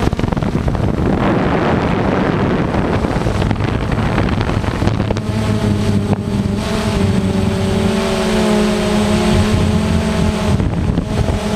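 A motor running with a steady hum under wind noise on the microphone; the hum settles in about five seconds in, drifts slightly lower, and drops out abruptly near the end.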